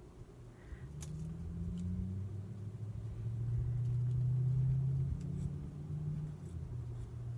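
Low engine rumble of a passing motor vehicle, swelling from about a second in, loudest around the middle, then easing off.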